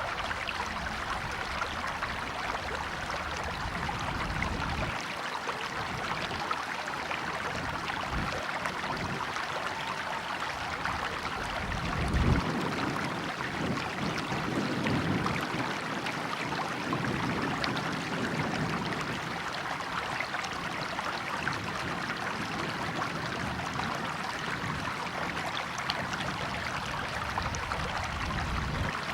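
River water flowing steadily, a continuous rushing and trickling, with stretches of low rumble and a brief louder surge about twelve seconds in.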